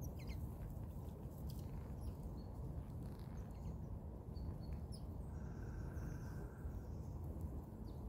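Small birds giving short, scattered chirps over a steady low background rumble.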